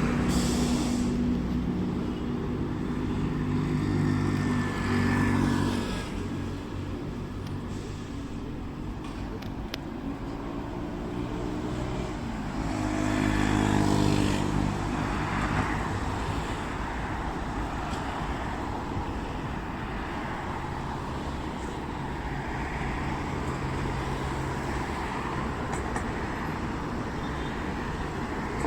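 Road traffic: motor vehicle engines swelling and fading several times over a steady road noise.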